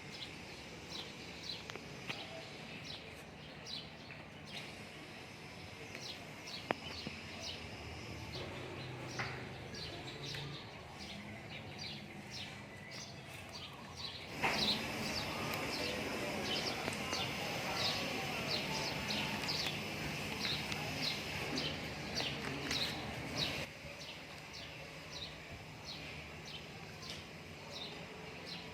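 Small birds chirping in quick, short high calls, several a second, over a steady background hiss. The hiss grows louder and fuller for about nine seconds in the middle, then drops back.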